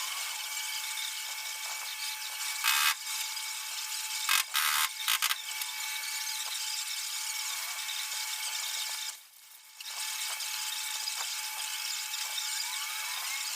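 A power tool running steadily with a high whine, with louder bursts about three and five seconds in and a brief stop near nine seconds before it runs on.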